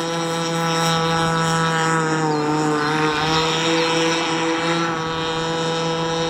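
Two-stroke gas engine of a 48-inch ProBoat Rockstar RC catamaran running steadily on the water at moderate, break-in throttle, its pitch dipping slightly about halfway through and then recovering.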